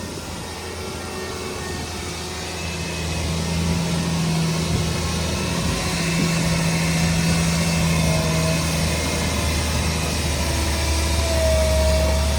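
Shantui DH17 bulldozer's diesel engine running steadily under work, growing slowly louder, with a short high squeal near the end.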